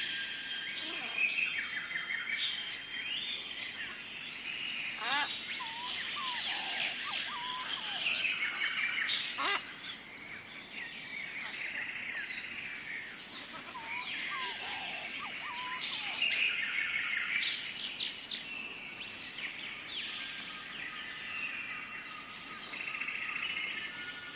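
Several birds chirping and calling over one another in quick, overlapping trills and whistles, over a steady high whine.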